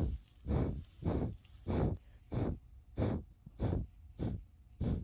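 Steam locomotive chuffing at a steady slow pace, about eight puffs, roughly one every 0.6 s.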